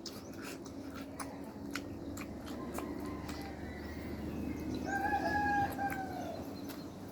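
A rooster crowing once: a long held call about five seconds in that drops in pitch at the end, over scattered small clicks and taps.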